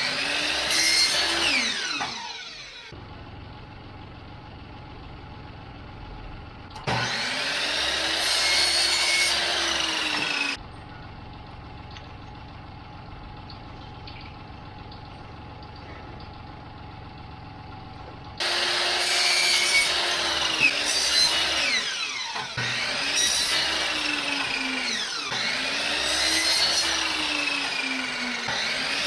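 A power tool working wood, its motor pitch rising and falling in repeated passes every two to three seconds. It comes in three loud stretches that start and stop abruptly, with quieter steady hum between them.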